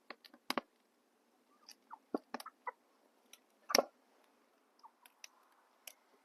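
Wood campfire of apple-tree clippings crackling, with irregular sharp pops; the loudest pop comes a little before four seconds in.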